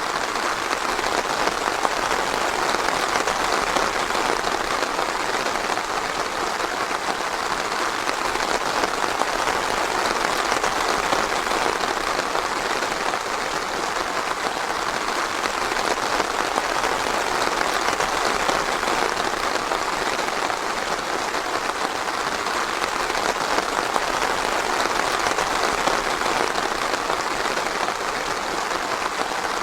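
Steady rain falling in a forest, a dense even patter of drops on leaves and ground.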